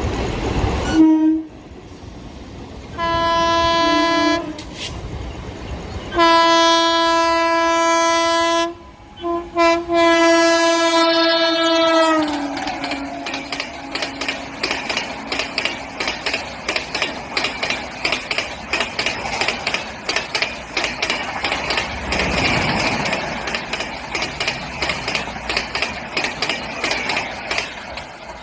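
Electric locomotive's horn sounding three blasts as the train approaches; the last and longest dips in pitch as the locomotive passes. Then the coaches' wheels click over the rail joints in a fast, steady clickety-clack as the express runs by at speed.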